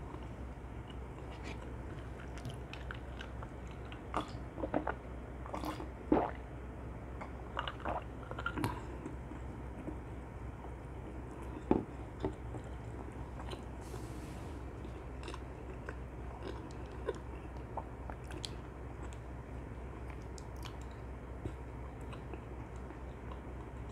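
Close-miked chewing of glazed fried chicken (dakgangjeong), with sharp crunches and mouth clicks that come thickest between about four and nine seconds in and thin out afterwards. A steady low hum runs underneath.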